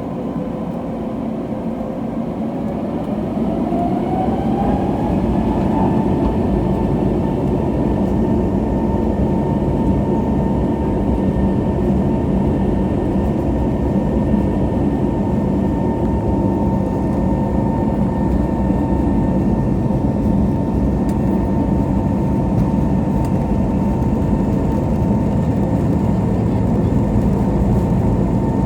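Pratt & Whitney PW1100G geared turbofan engines of an Airbus A321neo spooling up to takeoff thrust, heard from inside the cabin. The engine whine rises in pitch over a few seconds and then holds steady over a loud, even rumble as the aircraft rolls down the runway.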